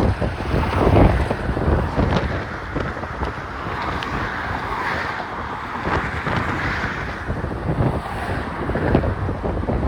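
Strong wind buffeting a phone's microphone, a steady rush with uneven gusts in the low end.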